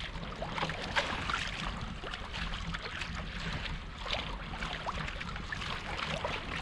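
Water lapping and splashing around a kayak hull, with many small irregular splashes and knocks over a steady low rumble.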